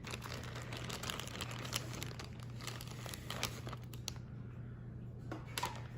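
Faint crinkling and rustling of plastic being handled, in scattered small crackles that ease off about four seconds in and pick up again briefly near the end.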